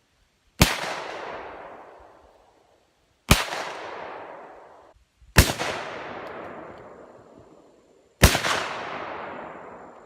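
Four loud explosive blasts from Tannerite exploding targets, spaced about two to three seconds apart. Each rolls off in a long echoing rumble.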